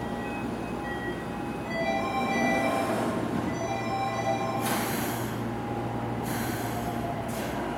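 A standing Toei 6300-series commuter train hums steadily while a short melody of electronic chime tones plays. Near the end come three brief hisses of compressed air, just before the train pulls out.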